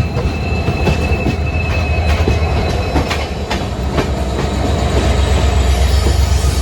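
Passenger train running on the rails: a heavy steady rumble with irregular metallic clanks of the wheels and couplings, and a thin high wheel squeal between about one and two and a half seconds in.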